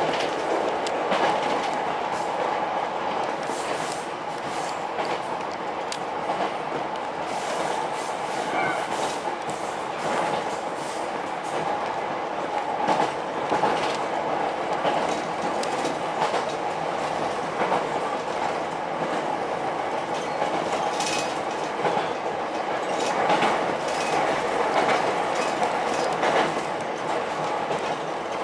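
Ichibata Electric Railway 7000 series electric train running, heard from inside the car: a steady rumble of wheels on rails with scattered clicks over rail joints.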